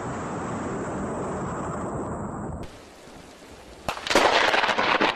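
A steady hiss, then a sudden sharp crack nearly four seconds in, followed by loud crackling and rumbling: the thunderclap of a close lightning strike.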